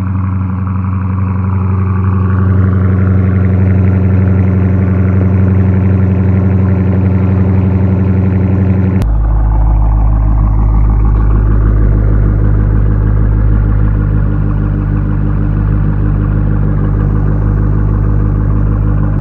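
Exhaust of a 2018 Dodge Challenger Scat Pack's 6.4-litre HEMI V8 with the mid-muffler deleted, running loud at a steady engine speed. About nine seconds in it switches abruptly to a deeper rumble.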